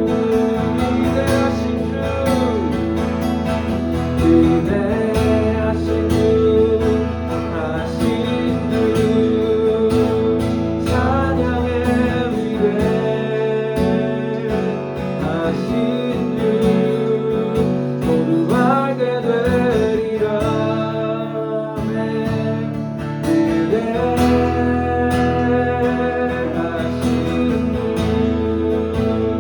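Worship music: strummed acoustic guitar with sustained chords and a voice singing over them. The low bass drops out for several seconds in the middle.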